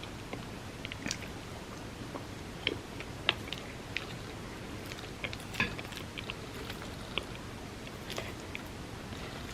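A person eating close to the microphone, chewing soft cake soaked in almond milk, with scattered small sharp clicks and smacks throughout.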